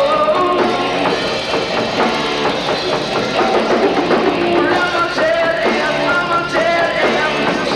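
Rock band playing live at full volume, drum kit and amplified instruments together, with held notes over a steady beat.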